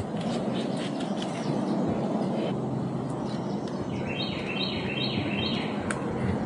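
A bird calling a quick run of four high chirping notes about four seconds in, over steady outdoor background noise, with a single sharp click near the end.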